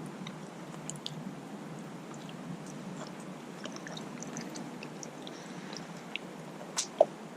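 A person chewing a mouthful of steak, with scattered small clicks throughout. A brief, sharper sound comes near the end.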